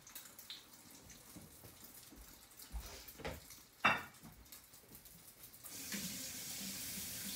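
Egg-soaked bread sandwich frying in hot oil in a skillet: a steady sizzle. A few knocks come in the middle, one sharp one just before halfway. From about six seconds in, a louder steady rushing hiss takes over.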